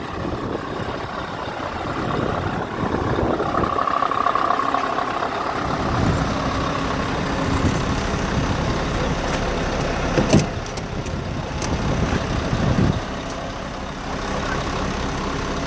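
Scania R520 truck's V8 diesel engine running, its sound swelling and easing several times. There is one sharp knock about ten seconds in.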